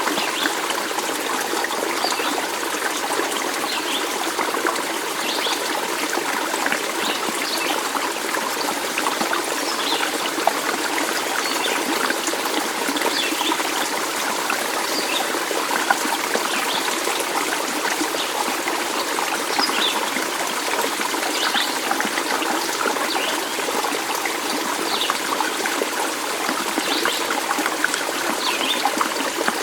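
Stream water trickling and running steadily, with short high sounds scattered through it.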